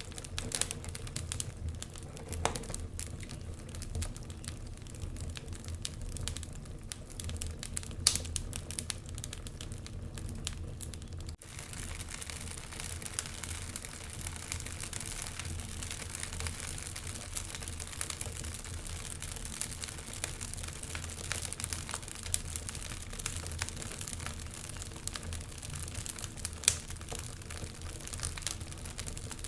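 Wood fire crackling in a fireplace: a steady stream of small snaps and ticks over a low rumble of flame, with a few sharper pops, the loudest about eight seconds in and near the end. About eleven seconds in the sound drops out for an instant.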